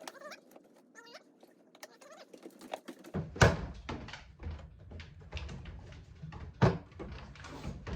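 Plastic center console lid of a 1989 Ford Bronco being worked and pushed shut: a run of plastic clicks and knocks starting about three seconds in, with two sharp thunks. The lid won't latch because the replacement latch piece is not long enough.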